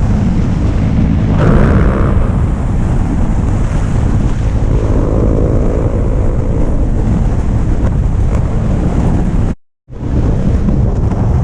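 Motorcycle riding at speed: heavy wind buffeting on the microphone over the bike's engine note. The sound cuts out for a moment near the end.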